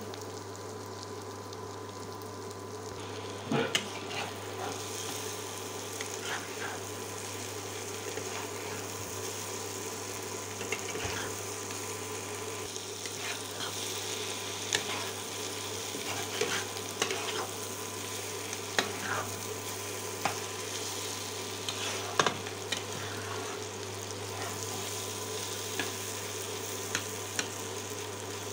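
Shredded potato and egg frying in a karahi, sizzling steadily, while a spatula stirs and scrapes through it against the pan in irregular strokes. A steady low hum runs underneath.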